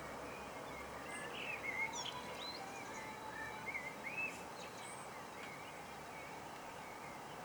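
Songbirds chirping and singing in short, curling phrases over steady background noise, busiest in the first half.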